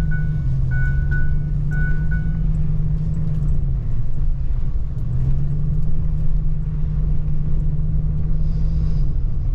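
Vehicle engine running while driving, a steady low drone that sags about four seconds in and climbs back up a second later. A run of short, evenly spaced beeps sounds over it in the first two seconds.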